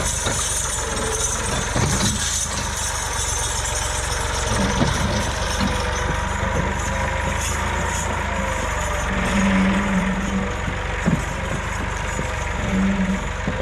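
Tractor diesel engine running steadily, growing louder twice in short stretches about two-thirds of the way through and near the end.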